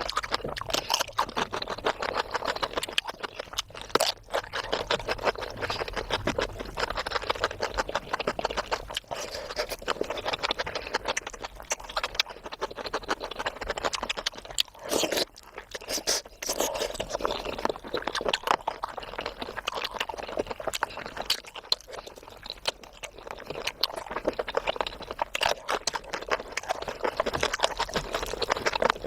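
Close-up eating sounds: chewing and wet mouth noises while eating curry with rice and puri, heard as a dense run of small clicks.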